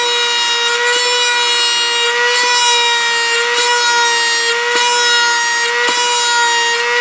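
Dremel rotary tool running at a steady high whine, spinning a brass tube that is touched to the model jet's skin about once a second, each touch a brief tick as it friction-burns a rivet ring. The tube tip is up to temperature, so the rivets go quickly.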